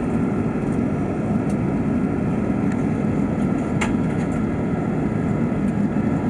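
Steady cabin drone of an Airbus A380 in flight, the engine and airflow noise heard from an economy seat, with one sharp click about four seconds in.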